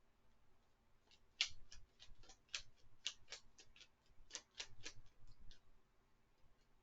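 Tarot cards being shuffled and handled: a run of light, sharp clicks and snaps, irregularly spaced, for about four seconds, then stopping.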